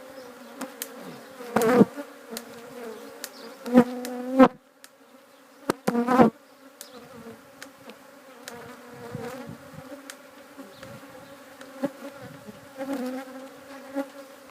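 Africanized honey bees buzzing steadily around an opened hive, a defensive, agitated colony. Several loud knocks and thumps break through the buzz, the loudest about two, four and six seconds in.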